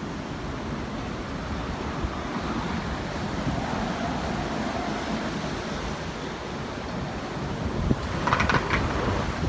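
Typhoon wind and rain making a steady, noisy roar, gusting harder near the end with wind buffeting the microphone.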